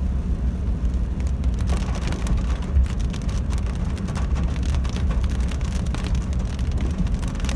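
Heavy rain falling, with many close drop hits ticking densely over a steady low rumble.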